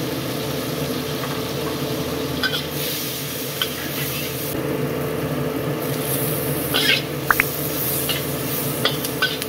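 Sliced onion, garlic and ginger sizzling in oil in a wok, with a spatula stirring and scraping against the pan now and then from a few seconds in. A steady low hum runs underneath.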